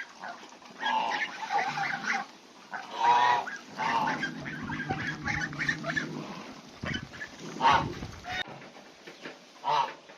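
Farm birds honking: a series of short, loud goose-like calls, about five in all, with a low rumble underneath in the middle.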